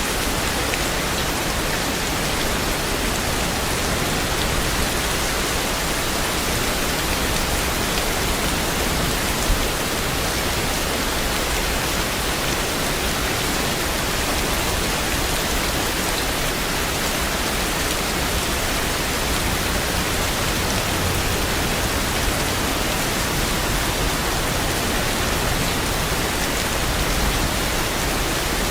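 Steady rain, a dense even hiss of countless drops with no change in strength, and one brief louder tap about a third of the way in.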